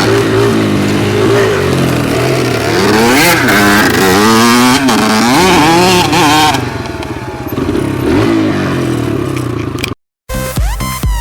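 Dirt bike engine revving up and down, its pitch rising and falling, loud for the first two-thirds and then quieter. It cuts off abruptly near the end, just before electronic dance music starts.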